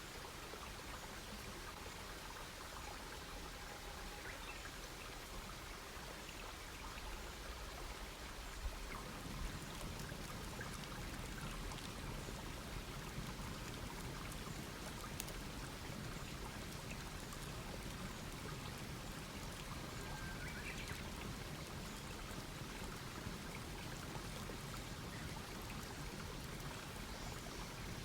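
Campfire crackling: scattered sharp pops and snaps over a steady hiss, growing louder and fuller about nine seconds in. Faint bird chirps come through a few times.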